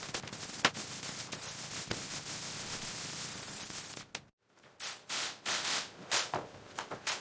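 Sharp knocks over a steady scraping noise, which cuts out briefly about four seconds in. After the gap come several short, separate noisy bursts.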